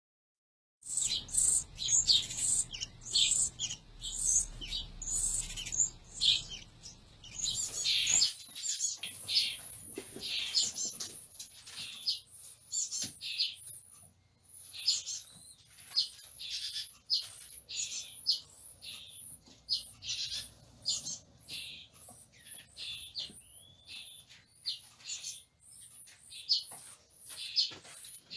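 Baby birds giving rapid, high-pitched begging chirps, typical of nestlings calling to be fed. The chirping starts suddenly about a second in.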